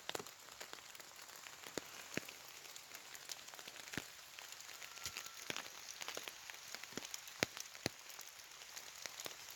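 Light rain falling: a faint steady hiss with scattered, irregular sharper drop impacts.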